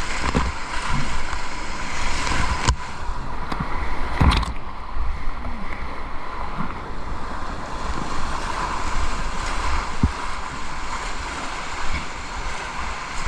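Rushing whitewater of a river running high, heard from a kayak, with a low rumble of wind buffeting the microphone. A few sharp knocks come through, the clearest about three and four seconds in.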